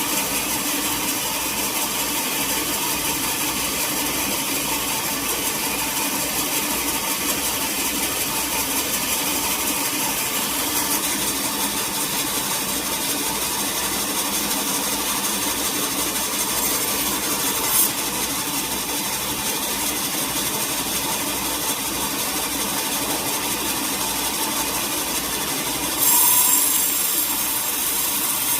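Sawmill machinery running steadily with a mechanical hum and hiss. There is one short sharp click about two-thirds of the way through, and near the end the sound turns louder and hissier as the saw begins cutting into the wood.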